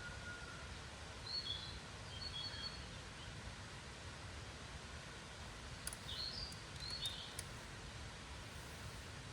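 Small birds chirping in short calls, in two brief groups, over a steady low outdoor rumble, with a few faint clicks during the second group.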